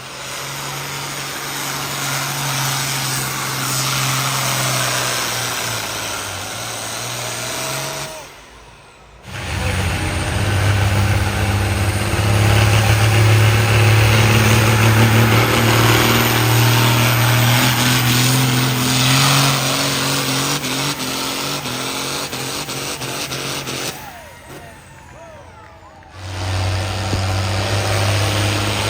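Farm stock pulling tractor's diesel engine running hard under load as it pulls the sled, a loud steady drone. The sound drops away briefly twice, about eight seconds in and again near the end.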